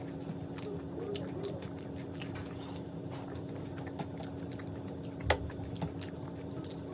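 Close-miked chewing of a crunchy mouthful, with scattered small crunches and one sharper crunch about five seconds in, over a steady low hum.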